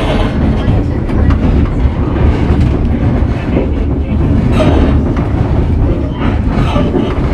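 White Pass & Yukon Route narrow-gauge passenger train rolling along the track: a steady, loud rumble of wheels on rails with occasional clicks.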